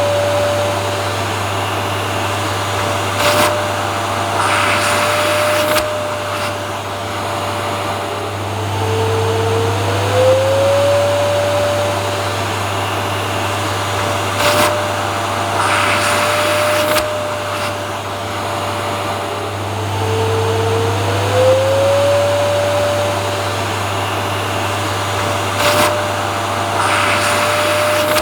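Vacuum cleaner running continuously. Its motor whine rises in pitch and then holds steady under a constant rushing hum, with brief surges of air noise. The same cycle repeats about every eleven seconds, like a looped recording.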